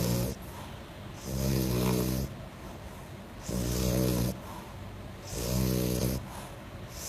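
French bulldog snoring loudly, like a pig, in a steady rhythm: about three long rasping snores roughly two seconds apart, with quieter breathing between them.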